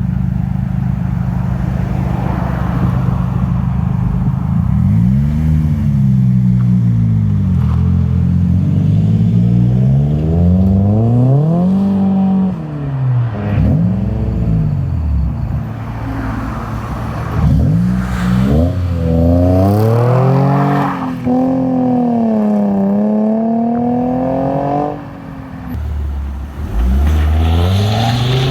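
Car engine idling steadily, then revved over and over, its pitch climbing and falling with each blip of the throttle as cars drive off from a meet.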